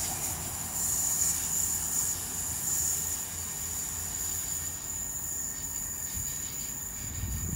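Great Western Railway Class 802 bi-mode train pulling away into the distance: a low rumble with a steady high-pitched wheel squeal, both slowly fading as it recedes.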